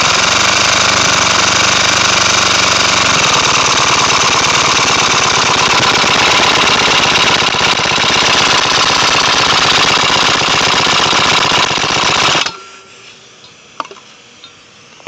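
Homemade compressed-air engine, a four-stroke converted to two-stroke, running fast with its milled exhaust port open: a loud, rapid stream of air blasts from the port. It cuts off suddenly about twelve seconds in.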